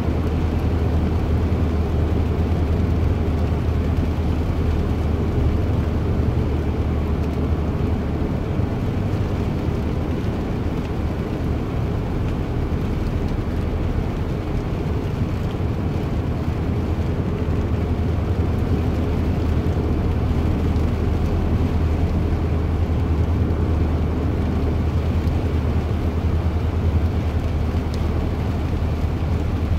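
Steady low drone of a running vehicle, heavy in the bass, with an even rushing noise above it and no change in pitch or level.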